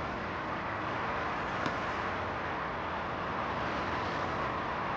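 Steady background noise of outdoor ambience, like distant traffic, with one faint click about one and a half seconds in.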